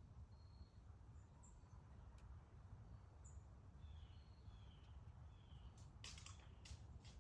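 Faint, short bird chirps scattered over a low steady background rumble, with a few sharp clicks near the end.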